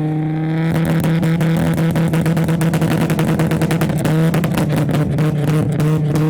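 Honda Civic Type R EP3's 2.0-litre four-cylinder i-VTEC engine revved and held at steady high revs, with a brief dip about four seconds in.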